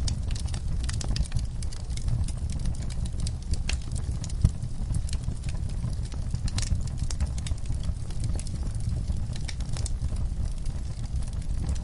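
Burning logs in a wood fire, crackling with frequent irregular sharp pops over a low steady rumble of the flames; one louder pop about four and a half seconds in.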